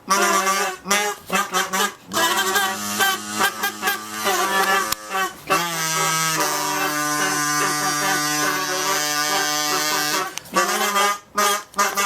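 Two kazoos buzzed at once, starting with short choppy notes. About two seconds in they settle into long held tones at two different pitches, then break back into short notes near the end.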